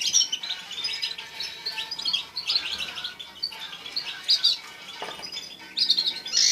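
Several caged finches chirping and twittering in quick, overlapping short notes and trills.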